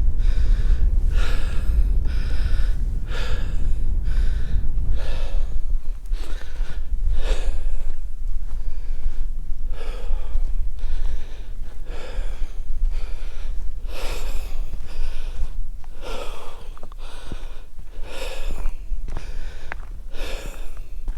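A man breathing hard close to the microphone while walking downhill, roughly one breath a second, with wind rumbling on the microphone.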